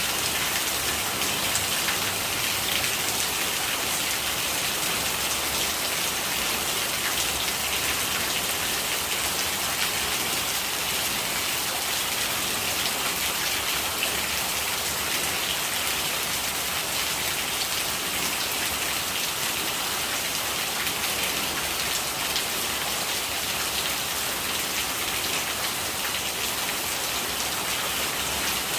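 Steady rain falling and gurgling rainwater running, a dense hiss of drops with fine patter.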